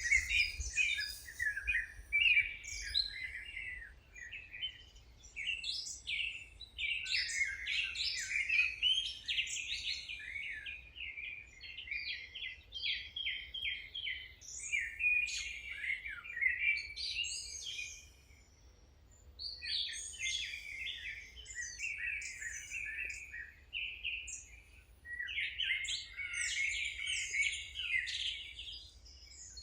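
Several songbirds chirping and singing at once, a dense run of quick high chirps and trills with a short lull just past the middle, over a faint low rumble.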